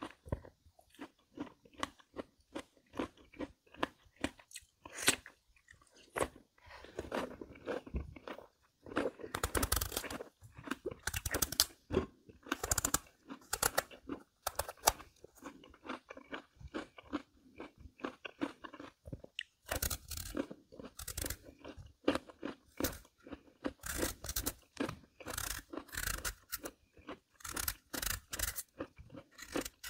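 Close-miked chewing of crisp Korean melon (chamoe) flesh: a steady run of wet, crisp crunches, heavier in bunches of bites through the middle and latter part.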